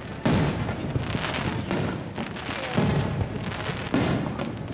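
Fireworks display: aerial shells bursting with sudden booms that rumble and echo away, three sharp bursts standing out, the loudest shortly after the start.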